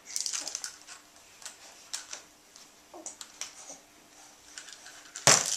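Baby in a high chair making scattered short clicky, breathy sounds, with one loud sudden burst about five seconds in.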